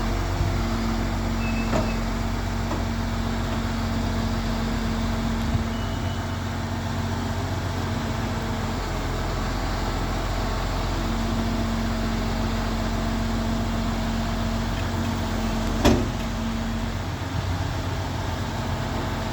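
MAN TGS refuse collection truck's diesel engine running steadily, with one sharp bang about sixteen seconds in.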